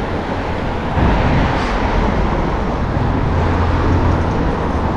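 Street traffic noise: a steady rumble of road vehicles.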